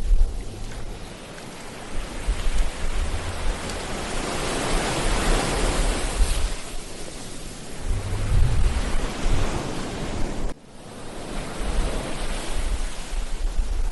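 Sea waves breaking and washing on a beach, one wave swelling up and breaking about four to seven seconds in, with wind rumbling on the microphone. The sound drops out for a moment about ten and a half seconds in.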